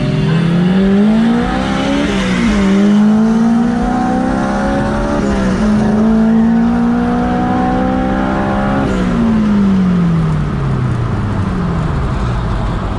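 A car's engine accelerating hard through the gears in a street race. Its pitch climbs, drops at upshifts about two and five and a half seconds in, climbs again, then falls away as the throttle is lifted about nine seconds in, with steady wind and road noise under it.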